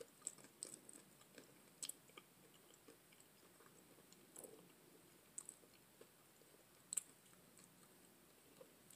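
Faint close-up chewing of fried catfish, with scattered soft mouth clicks; the sharpest clicks come about two seconds in and about seven seconds in.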